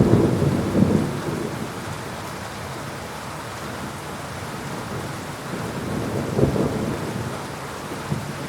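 Steady heavy rain falling, with low rumbles of thunder at the start and again about two-thirds of the way through.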